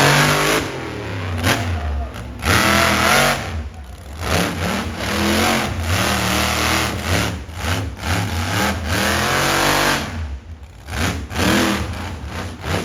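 Monster truck engine revving hard, its pitch rising and falling again and again as the throttle is blipped, with brief drops in level about four seconds in and near the end.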